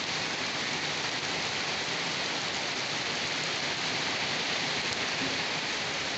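Steady heavy rain falling, an even hiss of drops with no single drop standing out.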